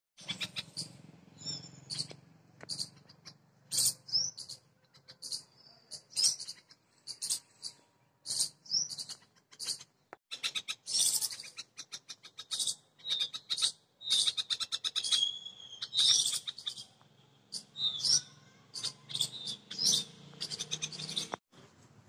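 Small songbirds chirping in a tree: a quick run of sharp, high-pitched chirps and short whistled notes, repeated over and over, which breaks off abruptly near the end.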